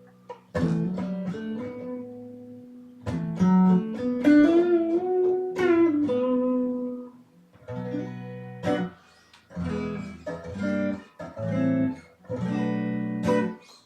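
A 1997 Squier Jagmaster electric guitar being test-played with a clean tone, mixing picked single notes and chords. About four seconds in, one note is bent upward and released.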